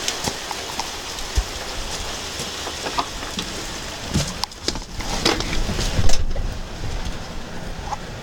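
Heavy rain pouring and splashing on a truck's hood, a steady hiss dotted with close drop impacts. A loud bump about six seconds in, after which the rain sounds duller.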